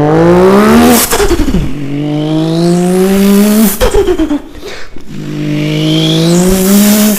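Car engine accelerating hard through the gears: the pitch climbs steadily, drops suddenly at a gear change, and climbs again, three times over.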